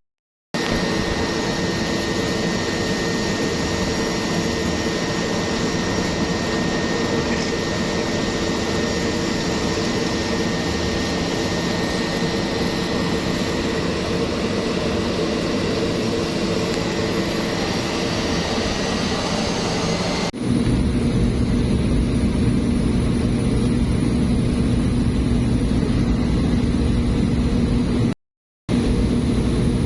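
Steady engine and propeller drone of a small passenger plane in flight, heard inside the cabin, with several steady tones. About twenty seconds in, it changes abruptly to a louder drone with lower tones. There are two brief dead-silent breaks, one at the start and one near the end.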